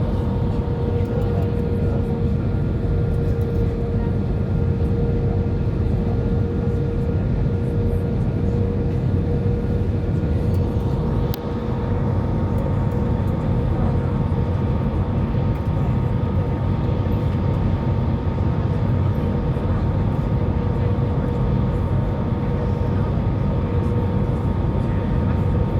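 Steady cabin noise inside an airliner on its approach to land: a constant deep rumble of engines and rushing air, with a steady hum tone over it. A single click sounds about eleven seconds in.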